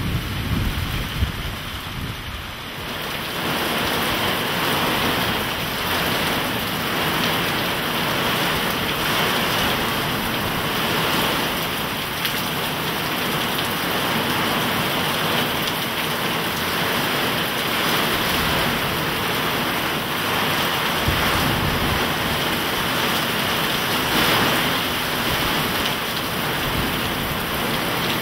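Torrential rain pouring steadily, growing heavier about three seconds in, with a low rumble of thunder dying away at the start.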